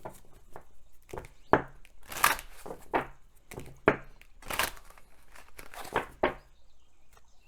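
Oracle cards being handled on a table: a string of short, irregular papery rustles and slides, easing off near the end.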